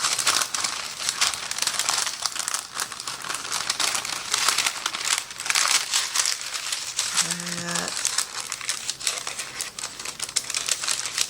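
Plastic wrap being pulled and crinkled by hand as it is pressed over food, a continuous irregular crackling.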